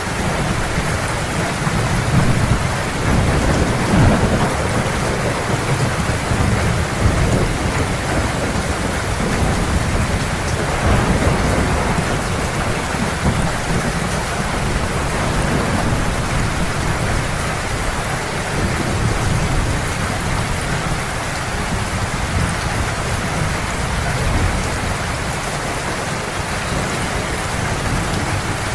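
Heavy rain falling steadily, with low rolling thunder that swells a few times, most in the first half.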